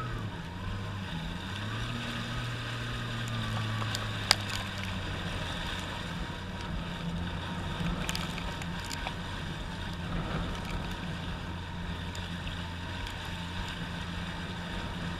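Jet ski engine running at low speed, with water and wind noise. Its pitch rises briefly after about a second, then settles back. There is one sharp click a few seconds in.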